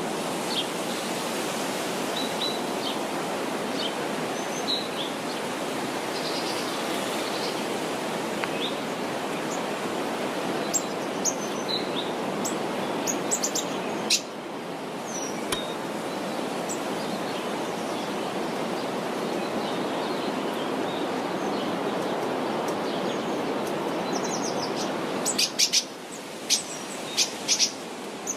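Steady rustle of leaves moving in the wind, an even hiss, with scattered short bird chirps over it. Near the end the rustle eases and a quick run of sharp chirps follows.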